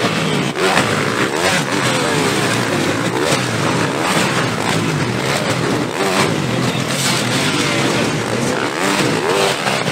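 Several motocross bikes racing, their engines revving up and down in overlapping rising and falling notes.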